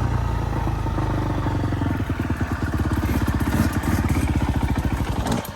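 Dirt bike engine running steadily with a fast, even firing pulse. It cuts off abruptly just before the end.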